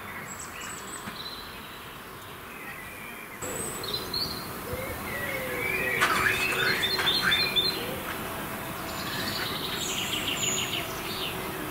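Small birds singing in a garden: scattered chirps and quick trills of rapidly repeated high notes, busiest in the middle and again near the end, over a steady outdoor background.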